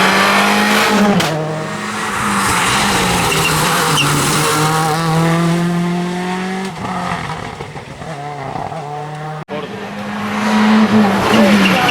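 Seat Córdoba WRC rally car's turbocharged four-cylinder engine being driven hard, its note stepping and gliding in pitch with gear changes and throttle. The sound dips around eight seconds in, breaks off sharply about a second and a half later, then returns louder.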